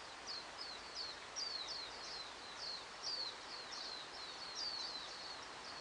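Small birds chirping: short, high notes that fall in pitch, repeated about two or three times a second, over a steady background hiss.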